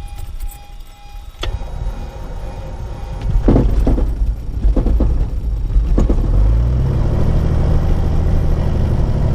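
Small piston aircraft engine catching unevenly after a hard start, sputtering and coughing, then settling into a steady run about six and a half seconds in. The pilot puts the hard start down to over-priming it in the cold.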